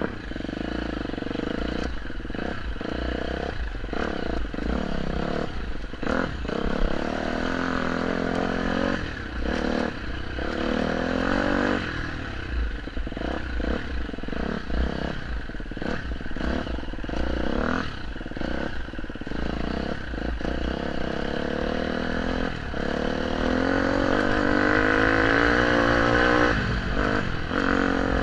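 Dirt bike engine running on a rough track, its pitch rising and falling as the throttle opens and closes, with frequent clattering knocks from the bike over uneven ground. It revs higher and louder near the end.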